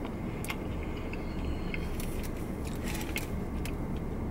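A man chewing a mouthful of taco, with scattered small wet clicks, over a steady low rumble.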